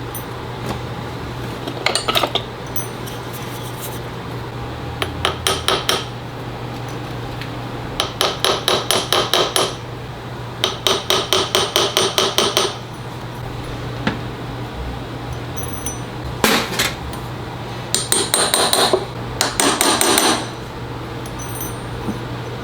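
Small jeweller's hammer tapping a metal ring, likely on a ring mandrel, in quick runs of light strikes about six a second, with pauses of a second or more between runs, as the cut ring is reshaped.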